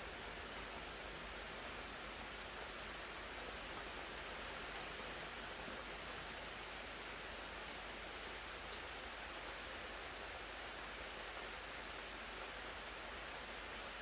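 Rain falling steadily, an even hiss that neither swells nor stops.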